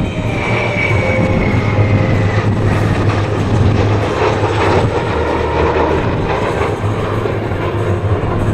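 Military jet aircraft flying past with loud, steady engine noise and a low rumble. A high whine falls slowly in pitch over the first couple of seconds as the jets pass.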